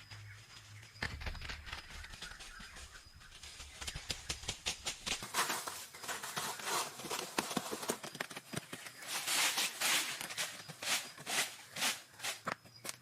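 Irregular crunching, scraping and clicking of dry natural material being worked by hand, growing busier and louder about four seconds in, over a low steady hum that stops about five seconds in.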